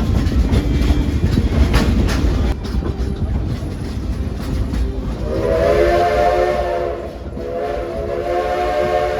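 A steam train rumbling and clattering along the track, then two long blasts on the steam locomotive's chime whistle, the first starting about five seconds in and the second following after a short break.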